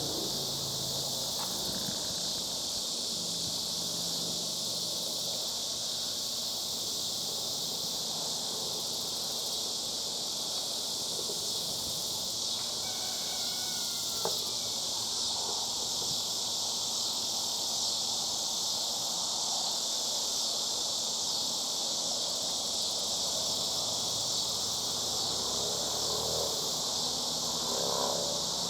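Steady, dense chorus of cicadas that holds throughout, with a few faint whistled calls about halfway through and again near the end.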